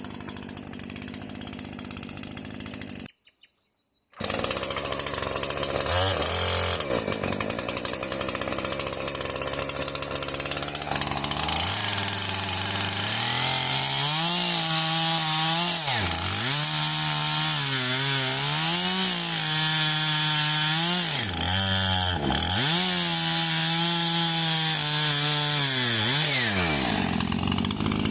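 Two-stroke petrol chainsaw at high revs. Its engine note dips sharply and climbs back several times as it bogs down in the cut. A brief silence falls about three seconds in.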